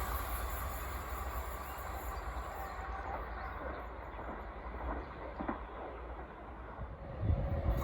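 Train running on the line, its rolling noise fading away. A low rumble swells again near the end.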